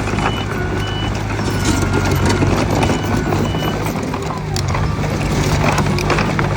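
Bulldozer's diesel engine running steadily under load, with irregular metallic clanking and squeaking from its crawler tracks.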